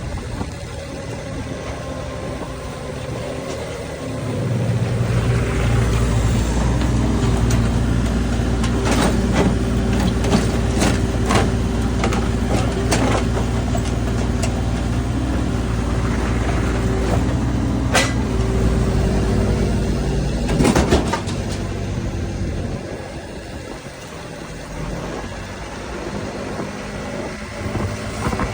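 Heavy diesel engine of road-construction machinery running steadily at a low pitch. It comes in loud about four seconds in and drops away about three quarters of the way through. Sharp knocks and clanks sound in the middle.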